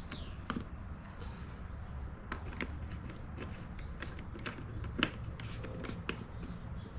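Scattered light clicks and knocks of parts being handled during generator reassembly, the loudest about five seconds in, over a steady low hum.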